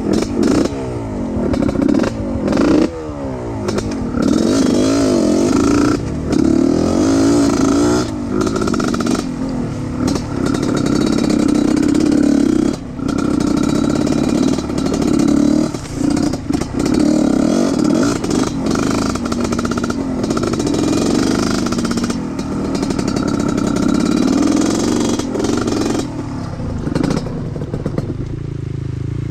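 Off-road trail motorcycle engine running under load, its revs rising and falling again and again, with clattering knocks over it. The revs settle lower near the end.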